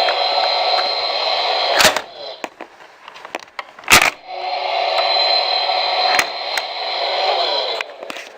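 Thunderbirds Tracy Island toy playset giving off a steady, buzzing sound in two stretches of about three and four seconds. Each stretch is cut off by a sharp click, and a few lighter clicks fall in between.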